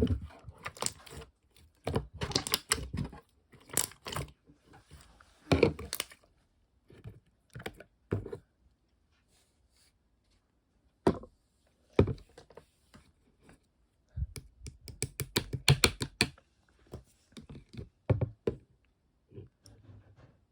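Slime being pressed and squished by hand, giving irregular bursts of small sharp clicks and pops, with a quiet pause about halfway through.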